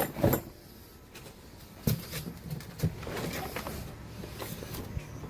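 Cardboard box and packaging being handled: a few sharp knocks and thuds, the loudest at the very start, with rustling and scuffing in between.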